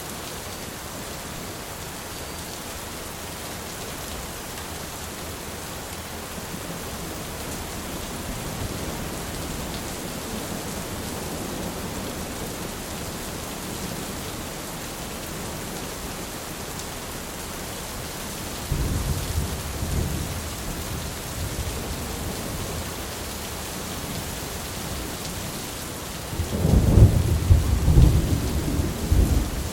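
Steady rain falling through a thunderstorm, with a rumble of thunder about two-thirds of the way in and a louder, longer thunder rumble near the end.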